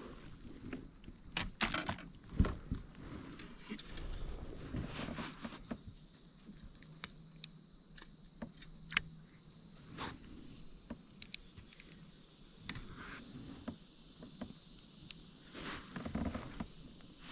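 Irregular taps and knocks on and around a kayak, with two louder knocks in the first few seconds, over a steady high-pitched whine.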